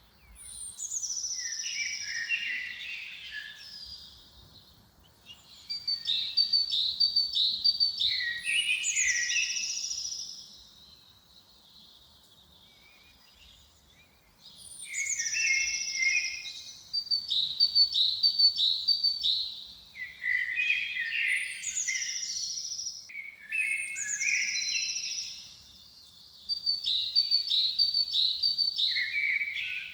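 A songbird singing, repeating the same short song phrase with pauses of a second or two between them and a longer pause in the middle. Each phrase opens with a high falling note, then runs into quick trills and a string of short repeated notes.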